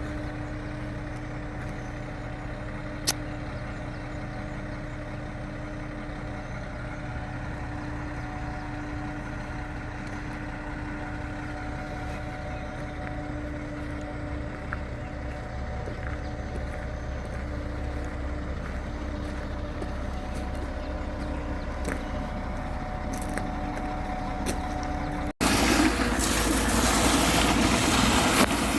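A vehicle engine running steadily, with a single sharp click about three seconds in. Near the end the sound cuts abruptly to a louder, rougher noise.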